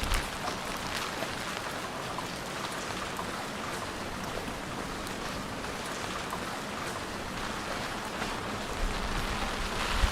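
Steady rain falling, an even hiss with the fine patter of many drops. A low rumble rises near the end.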